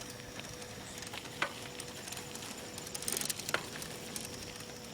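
Faint steady hiss of a bicycle being ridden, with a few light clicks and a thin steady hum underneath.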